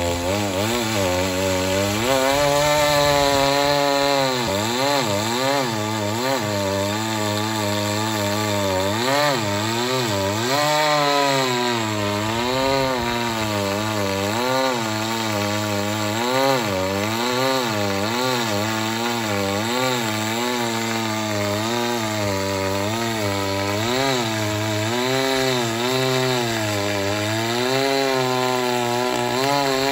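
Chainsaw running steadily and cutting wood, its engine pitch rising and falling over and over as the chain works through the cut.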